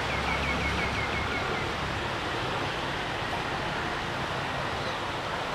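Steady outdoor wash of wind, sea and road traffic, with a low engine hum in the first two seconds. A quick run of about eight short high chirps sounds in the first second and a half.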